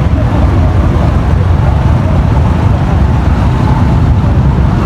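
Steady, loud low rumble of road traffic, with faint voices in the background.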